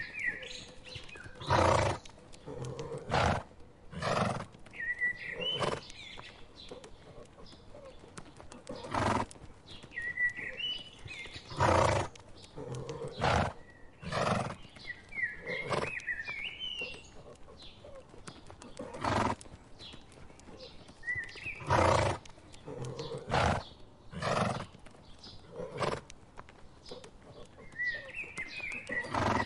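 A herd of horses grazing close by: short, noisy sounds every one to three seconds. Small birds chirp now and then.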